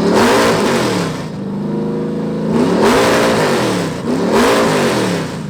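Motorcycle engine being revved three times, each rev rising and falling back, with the engine idling between the revs.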